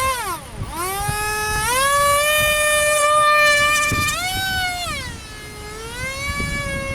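Small 30 mm electric ducted fan whining, its pitch dipping, then rising and holding steady, then falling and climbing again.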